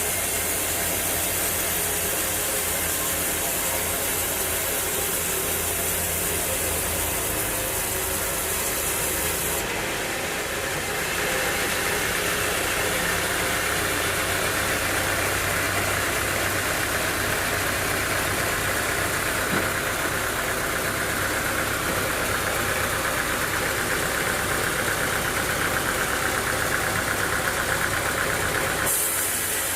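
Sawmill machinery running steadily with an engine. About ten seconds in the sound changes and a higher, rasping noise joins it, holding until shortly before the end.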